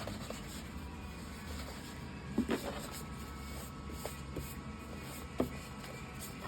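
Low steady room hum with a few soft, sharp clicks or taps: a pair about two and a half seconds in and a single one about five seconds in.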